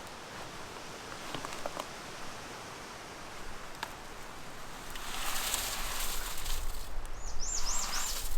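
Outdoor rustling with a few light clicks, growing louder about five seconds in. Near the end a bird gives a quick run of four arched, high whistled notes.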